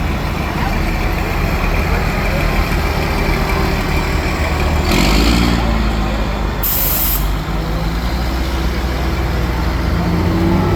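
Fire truck engines running steadily, with two short air-brake hisses, one about five seconds in and a higher, sharper one about two seconds later.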